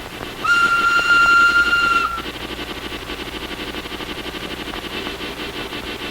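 Steam locomotive whistle blowing one long note, about a second and a half, followed by the steady rhythmic chuff of the engine running.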